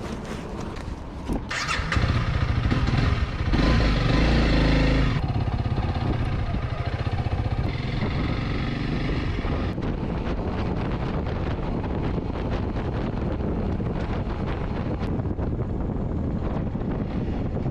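Honda CRF300 Rally's single-cylinder engine starting about a second and a half in, running loudest for a few seconds, then settling into a steady run.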